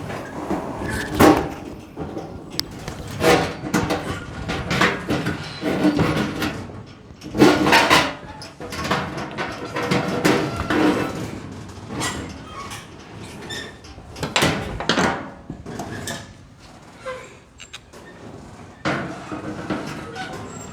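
Irregular clattering, knocking and scraping of metal parts being handled and fitted, in uneven bursts with several sharp knocks and no steady machine running.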